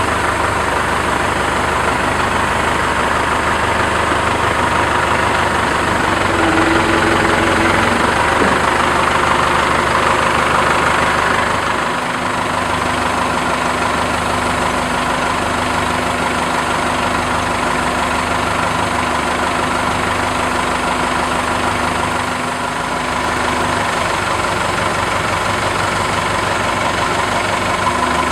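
Heavy diesel engine of construction machinery running steadily, a little louder and noisier for a few seconds about eight seconds in.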